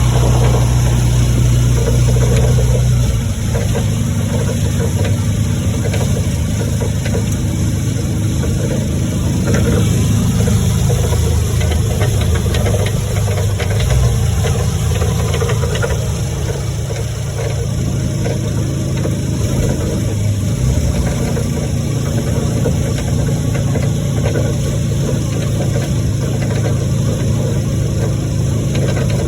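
A motor vehicle's engine running steadily under a constant hiss, its low hum shifting in pitch about three seconds in.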